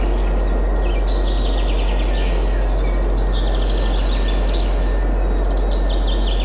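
Several birds singing in quick, repeated trills and chirps over a steady rush of wind and a constant deep rumble.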